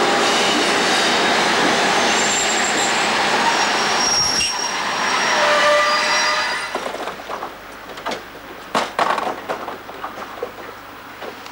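SJ T44 diesel locomotive and its work train of wagons rolling past close by, the wheels giving several high, thin squeals on the rails. About two-thirds of the way through the sound drops away sharply to a quieter rumble with a few sharp clicks and knocks.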